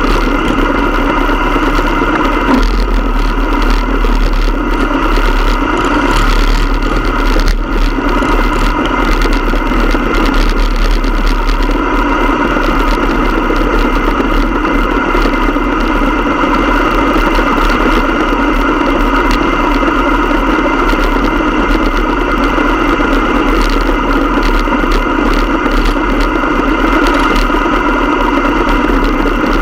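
Motorcycle engine running steadily, loud and unchanging in pitch.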